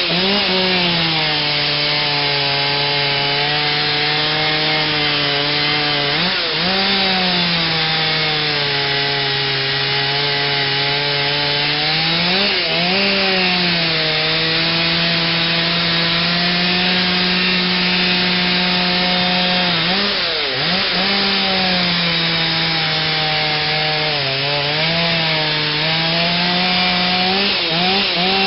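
Stihl 039 chainsaw with a modified, piped muffler and a 28-inch bar, cutting into a big oak at full throttle. The engine note is loud and steady, and it sags in pitch briefly about six times and climbs back as the cut loads the chain.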